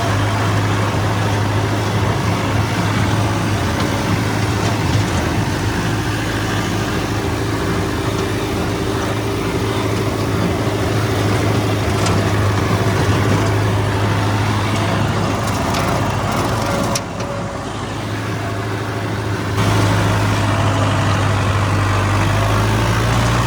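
Farm tractor engine running steadily while pulling a brush hog rotary mower through a pasture. The sound drops briefly about seventeen seconds in, then picks back up.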